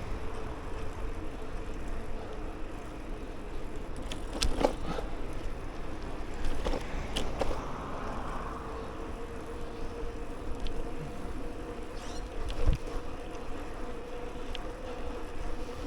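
Riding noise from a bicycle rolling along a trail: tyre and road rumble with wind on the microphone, a steady hum, and a few sharp clicks.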